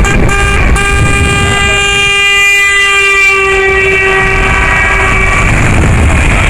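Lorry air horn sounding one long blast, with two short breaks near the start, over the low rumble of passing truck engines. The horn stops about five and a half seconds in.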